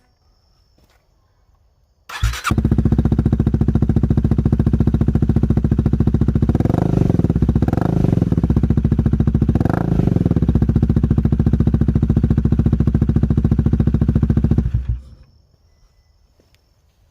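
Honda Rebel 250's single-cylinder engine exhaling through a Danmoto slip-on muffler: it is started about two seconds in, idles with three short blips of the throttle, then is switched off near the end.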